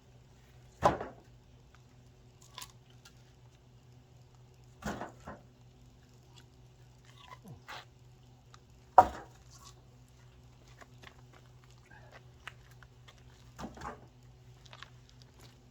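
Firewood being split: four sharp knocks about four seconds apart, the first and third the loudest, over a faint steady low hum.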